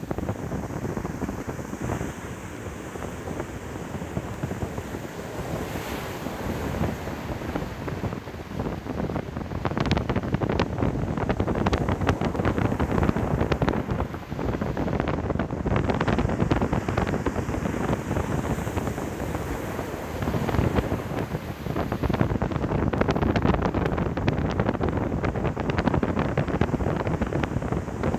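Sea waves breaking and washing on a beach, with wind buffeting the microphone; the wind noise grows louder and crackles about a third of the way in.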